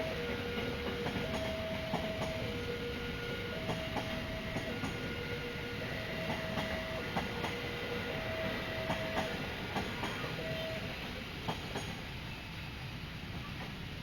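Passenger train rolling past a level crossing, its wheels clicking over the rail joints over a steady rumble. The crossing's warning alarm sounds two alternating tones, a lower and a higher one in turn about every second, and stops about eleven seconds in.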